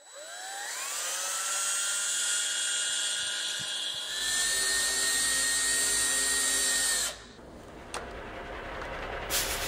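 A small electric motor whining like a power drill: it spins up in the first second, holds a steady pitch, changes to a different steady whine with a low rumble about four seconds in, and stops suddenly about seven seconds in.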